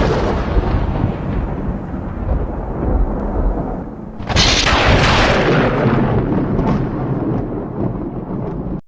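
Thunder: a long rumble fading away, then a second loud crack about four seconds in that rolls on and cuts off abruptly near the end.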